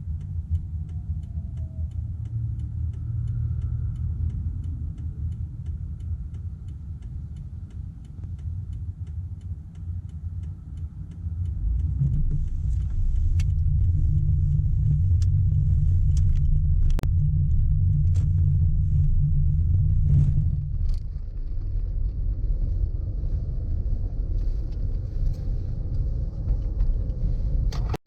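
Car driving, with a steady low road rumble that grows louder a little under halfway in and eases again about two-thirds of the way through. A few sharp clicks sound in the louder stretch.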